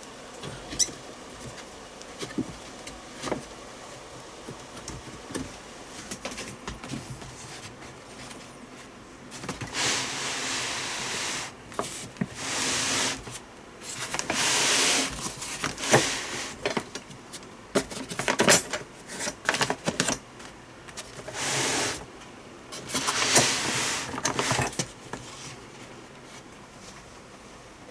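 Handling noises: scattered clicks and knocks, then several rustling or scraping bursts of a second or two each through the middle and later part.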